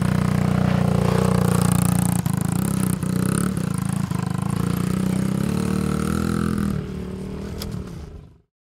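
Dirt bike engine running steadily at high revs. It drops in level about seven seconds in, then cuts off suddenly just before the end.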